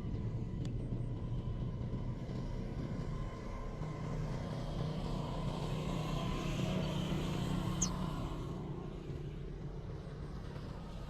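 Low rumble of a passing vehicle, swelling through the middle and easing off, with one short high chirp about eight seconds in.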